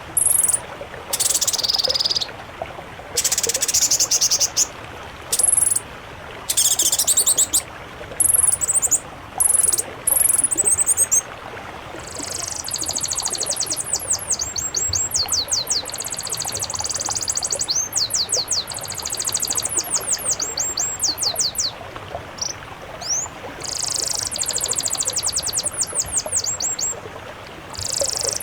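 Songbirds singing very high, fast song: short separate bursts of rapid trills at first, then from about twelve seconds in long runs of quick repeated down-slurred notes with brief pauses, over a faint steady hiss.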